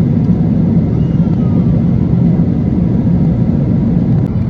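Steady low roar inside the passenger cabin of an Airbus A330-300 in cruise: engine and airflow noise.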